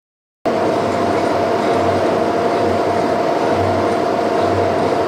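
A boring machine running and turning the boring bar through the bore. It starts abruptly about half a second in with a steady whine and a low rhythmic thump about once a second.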